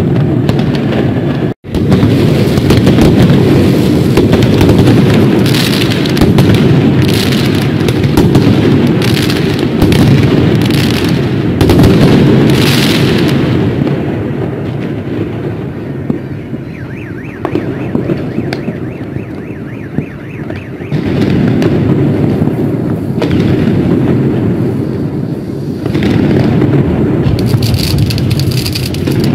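Loud, continuous New Year fireworks: many bursts and bangs running together into a dense rumble, easing off for a while in the middle before building again. The sound cuts out for an instant about a second and a half in.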